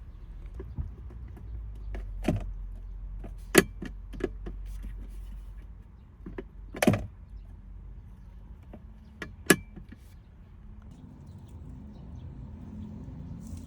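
A few sharp clicks and knocks, the loudest about three and a half seconds in, over a low steady rumble that fades around the middle.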